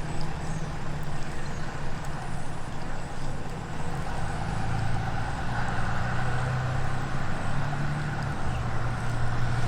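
A vehicle engine running with a low, steady hum that shifts in pitch, louder in the second half.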